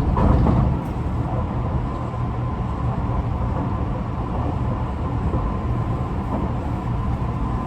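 Running noise inside a Tōbu 50090 series electric train car: a steady low rumble from the wheels and track, with a faint steady whine from the traction motor drive. The rumble eases a little about a second in. The uploader says this car's motors sound unusual and may be of a different type from the rest of the class.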